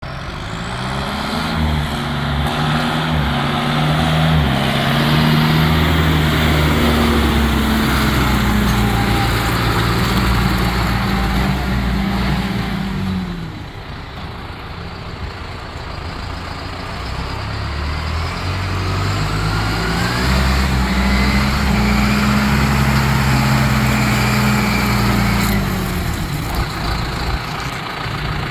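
John Deere 6420 tractor's diesel engine run up to higher revs and held, dropping back to a quieter idle about halfway through, then revved up and held again before falling back near the end.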